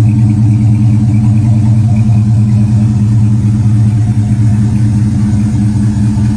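Car engine idling steadily, loud and low-pitched, with no revving.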